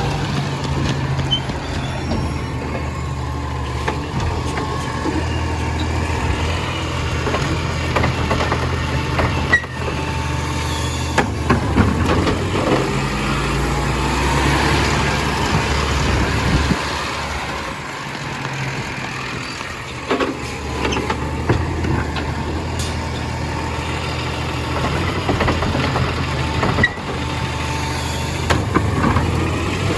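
Compost collection truck's diesel engine running steadily, with scattered sharp clanks and knocks.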